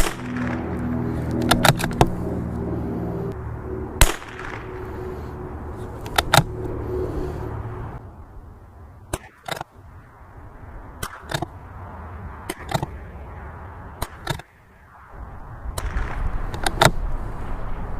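CZ 457 Varmint MTR .22 LR bolt-action rifle firing a string of shots, with sharp clicks between them, over steady wind rumble on the microphone. Background music plays under the first half and fades out.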